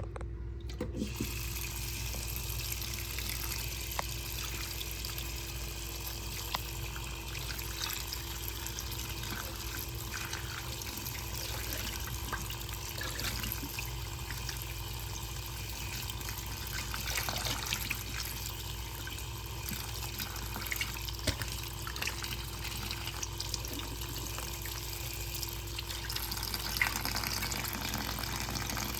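Steady running water, a constant rushing with small scattered clicks and knocks, and a faint steady hum beneath it.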